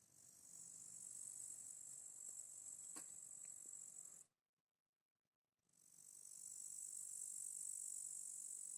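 Faint, steady, high-pitched chirring of insects. It runs in two stretches that cut off suddenly, one a little over four seconds in and the other near the end, with a single short tick about three seconds in.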